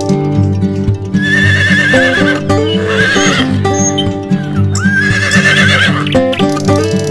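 Background music with horse whinnies laid over it, one about a second in and another about five seconds in, each a trembling, wavering high call.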